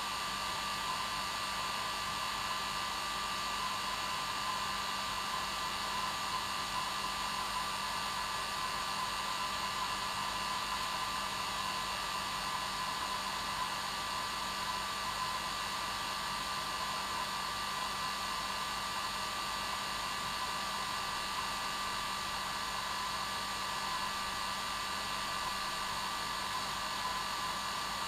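Hair dryer running continuously: a steady, even whir with a constant hum, unchanging throughout.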